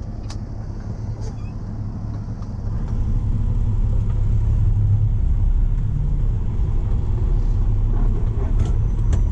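Heavy tow truck's engine and road rumble as it pulls away towing a semi tractor, growing louder about three seconds in as it picks up speed under load.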